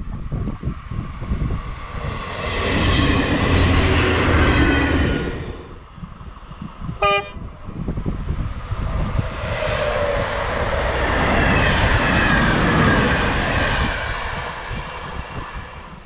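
Two trains pass one after the other, each a rush of wheels on rail that builds and then fades. Between them a train horn gives one short toot, about seven seconds in.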